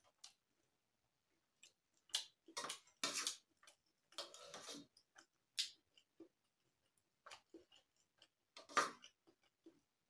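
Close-up eating sounds of instant noodles: scattered wet mouth clicks and lip smacks, with a few short, louder noisy bursts, the longest about four seconds in.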